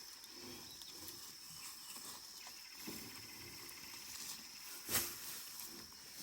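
Steady high insect drone, like crickets or cicadas in a hay field, with one sharp click or knock about five seconds in.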